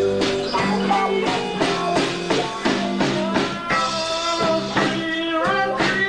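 A rock band playing live: drums, electric guitars and bass in an instrumental passage, with a melody line that slides between notes.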